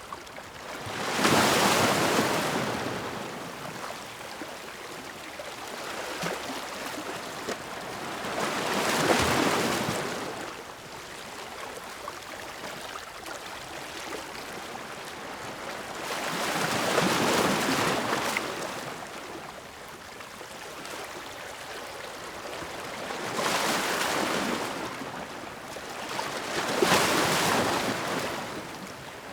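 Ocean waves breaking: five swells of surf noise that rise and fade, roughly every six to eight seconds, with a softer wash between them.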